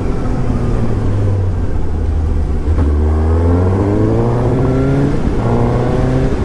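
2017 Suzuki GSX-S750's four-cylinder engine pulling under acceleration, its pitch climbing, dropping at a gear change about five seconds in, then climbing again.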